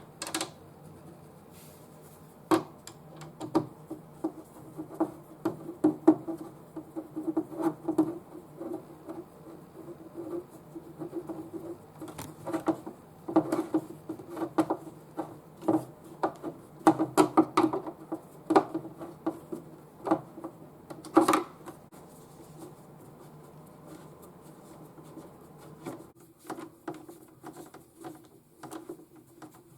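Irregular clicks, taps and rattles of the CRT monitor's casing and parts being handled during reassembly, over a faint steady low hum.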